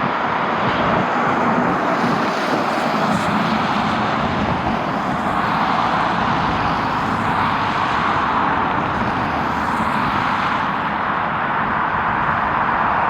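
Jet airliner engines running, a steady loud rush with no break.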